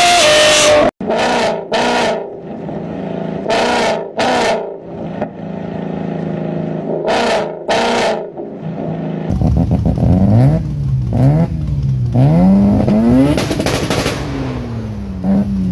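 Car engines revving: one idles and is blipped in quick pairs of revs, then, after a cut about nine seconds in, another engine is revved up and down repeatedly, its pitch rising and falling.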